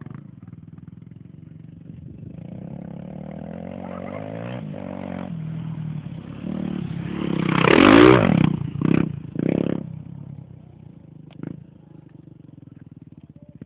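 Dirt-track motorcycle engine approaching and passing close by, building to its loudest about eight seconds in with the pitch dropping as it goes past. It follows with a few short bursts of throttle as it pulls away and fades.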